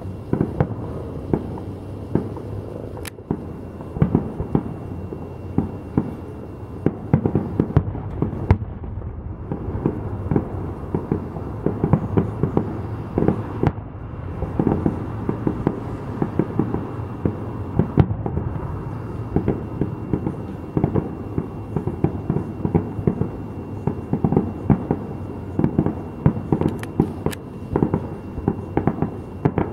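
Aerial fireworks shells bursting in a fireworks finale: a rapid, near-continuous barrage of booms and cracks.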